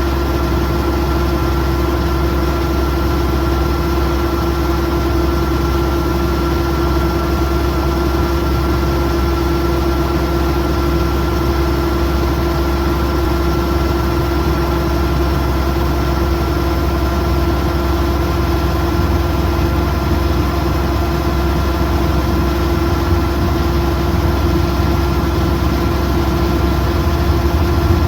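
Kubota DC108X combine harvester's diesel engine running steadily: a constant low drone with a steady hum above it, unchanging throughout.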